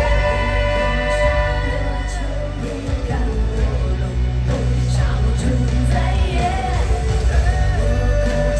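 Live pop-rock song played loud through a concert sound system: a singer holds a long note over the band in the first two seconds, the band plays on with more singing, and another long note is held near the end.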